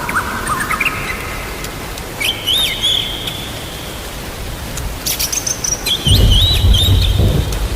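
Steady rain with short repeated chirping bird calls, several quick phrases a few seconds apart, and a low thunder rumble from about six seconds in.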